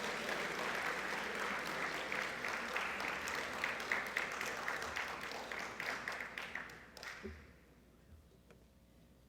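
Audience applauding in a large gymnasium, a dense patter of many hands clapping that thins and dies away about seven seconds in, leaving quiet room tone.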